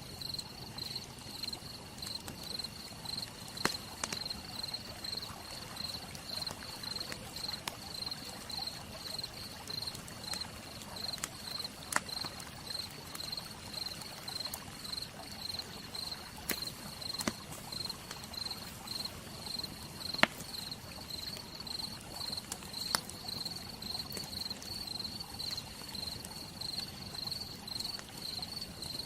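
Wood fire crackling, with a few sharp, isolated pops, over a steady, pulsing high-pitched insect chirp.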